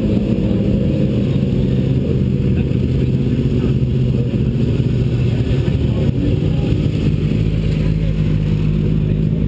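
Vehicle engine running steadily under load on a race track, heard from an onboard camera with wind and road noise; its pitch shifts slightly about seven seconds in.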